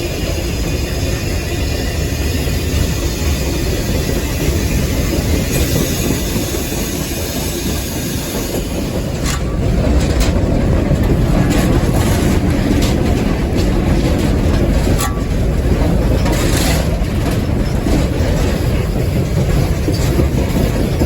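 Steam locomotive on the move, heard from its cab: a steady rumble with wheel and rail clatter. It grows louder about nine seconds in, with scattered sharp knocks after that.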